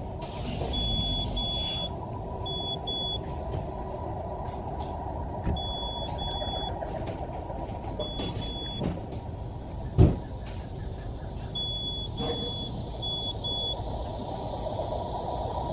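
Power tailgate warning buzzer on a Renault Samsung SM6, giving short high beeps in pairs that repeat every couple of seconds over a steady low hum. A single sharp thump comes about ten seconds in.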